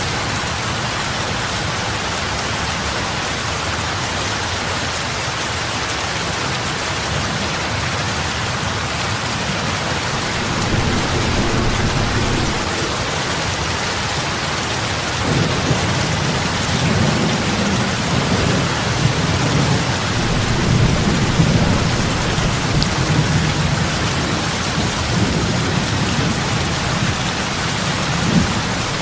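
Steady heavy rain falling on lake water, big drops splashing. A low rumble swells in about halfway through and carries on.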